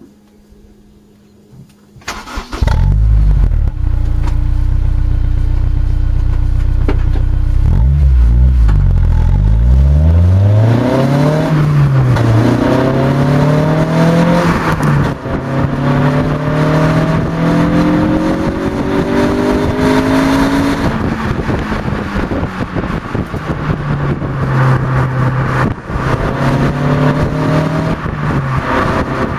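Honda S2000 inline-four engine breathing through a Bastuck duplex four-tip aftermarket exhaust: it starts about two seconds in and idles steadily, then from about eight seconds runs at higher revs, its pitch rising and falling repeatedly.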